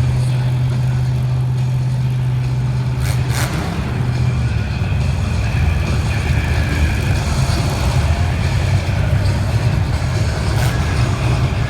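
Demolition derby cars' engines running loud and steady, the low engine note shifting about three seconds in, with two brief sharp knocks, one near the start and one near the end.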